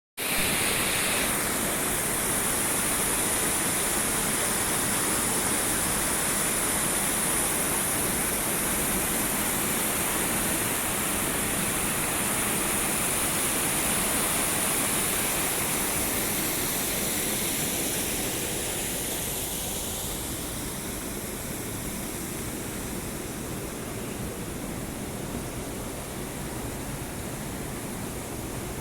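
Waterfall: a steady rush of falling water that eases a little, becoming somewhat quieter about two-thirds of the way through.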